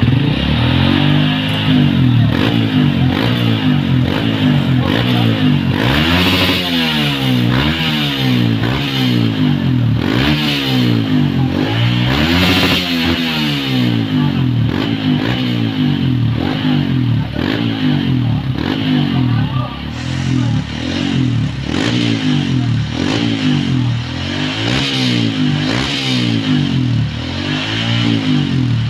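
Honda CRF motorcycle engine exhausting through its stock muffler, revved up and down again and again, its pitch rising and falling with each blip and climbing highest about 6 and 12 seconds in.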